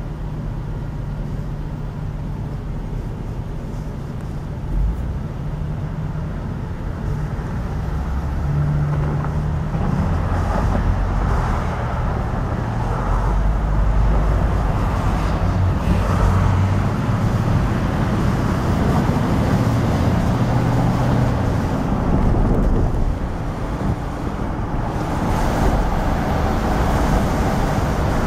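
Diesel freight train moving past: locomotive engines drone at a low, shifting pitch, and the rumble of double-stack container cars builds up about a third of the way in, mixed with road traffic noise.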